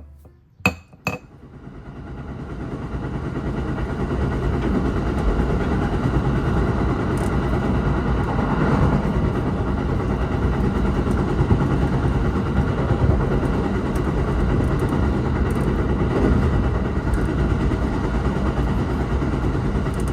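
Car driving on the road, heard from inside the cabin: a steady low rumble of engine and tyres. It builds up after two sharp clicks about a second in.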